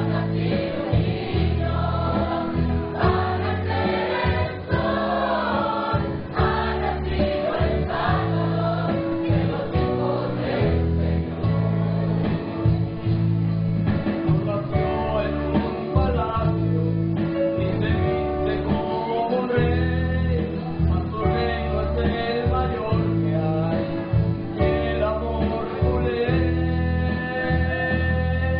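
Choir singing a Christmas song with guitar accompaniment.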